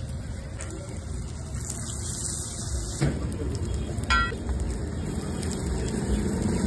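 A large stuffed paratha sizzling steadily as it shallow-fries in butter on a flat iron tawa. There is a sharp click about three seconds in and a brief ringing clink about a second later.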